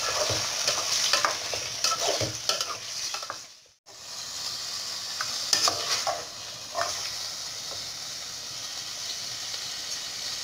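Chicken livers sizzling in hot oil in an aluminium pot while a spoon stirs them, scraping and clicking against the pot. The sound cuts out briefly about four seconds in, then the sizzling goes on steadily with a few more spoon clicks.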